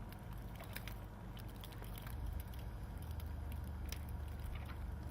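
Inside a car driving on snow with chains on the tires: a steady low drone of engine and road noise, which grows stronger about two seconds in, with scattered light clicks from the tire chains.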